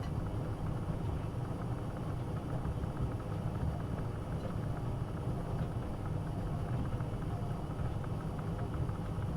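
AEG Öko-Lavamat 72520 front-loading washing machine running a boil wash, giving a steady low rumble.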